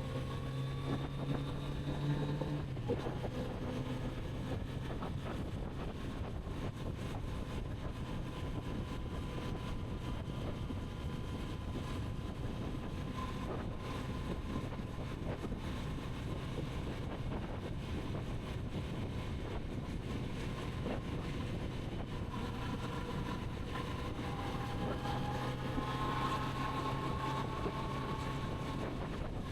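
Kawasaki Z900RS inline-four motorcycle engine under way with wind noise on the microphone. The engine pulls with rising pitch, eases off about two and a half seconds in, drones evenly at a steady cruise, then builds and rises again near the end as the throttle opens.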